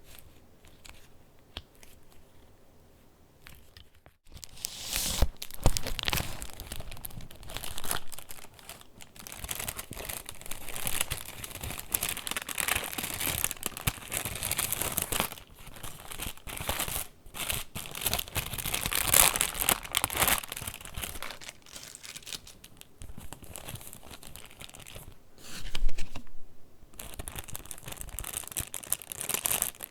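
Paper pages of a handmade junk journal being handled and turned, a dense rustling and crinkling with many quick crisp strokes. It is faint at first and starts in earnest about four seconds in.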